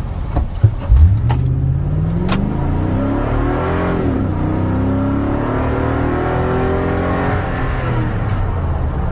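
Toyota Tundra's 5.7-litre V8 through a Banks Monster exhaust, accelerating. The engine note climbs, drops about four seconds in as it shifts up, climbs again, then eases off near the end. A couple of loud thumps come about a second in.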